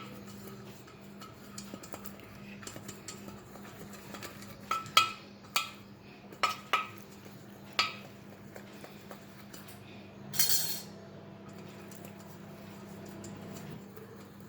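Kitchen utensils and cake molds clinking and knocking while the molds are handled. There are about half a dozen sharp taps in a cluster near the middle, then a brief scrape about two-thirds of the way through, over a faint steady hum.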